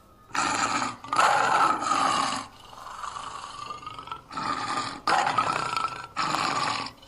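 Lion roaring and growling: a series of loud, rough roars with a quieter, lower growl in the middle.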